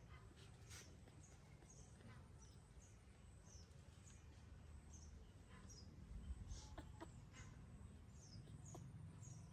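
Faint, quick high chirps of a small bird, about two a second and each falling slightly in pitch, over a low steady outdoor rumble.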